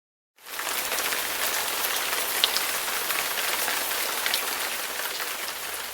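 Steady rain falling, an even hiss with scattered drop patter, coming in from silence about half a second in.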